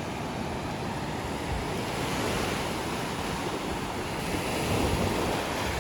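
Ocean waves surging on a beach, a steady rushing noise, with wind buffeting the microphone.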